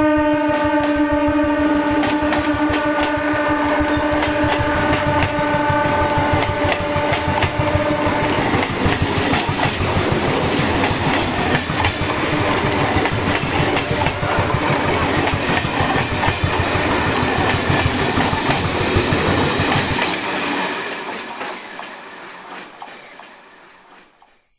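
A train horn sounds for about eight seconds as a train passes, its wheels clattering rhythmically over the rail joints; the rattle carries on after the horn stops and fades away over the last few seconds.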